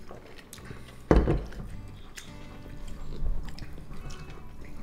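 Chewing and biting into food close to the microphone, over faint background music, with one loud thump about a second in.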